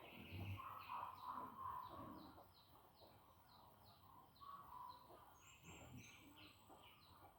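Faint bird chirping outdoors: a steady run of short, falling high-pitched notes, about two to three a second.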